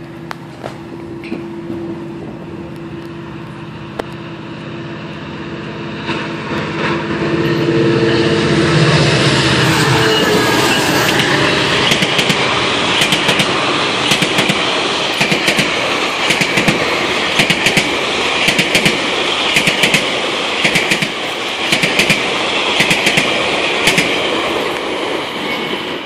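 GO Transit commuter train approaching and passing at speed. A droning hum fades as the rush of the passing train builds, then a long run of bilevel coaches goes by with a steady clickety-clack of wheels over rail joints.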